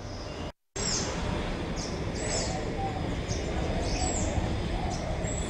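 Birds chirping, short high calls repeating every second or so over a steady low rumble of outdoor ambience. The sound cuts out for a moment about half a second in.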